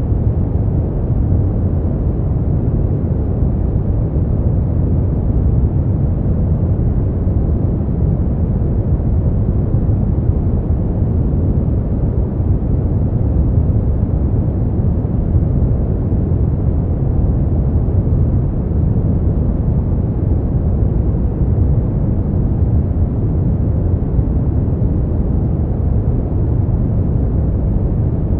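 Steady relaxation noise played as 'white noise' for sleep, deep and muffled, heavy in the bass with little hiss on top, unchanging throughout.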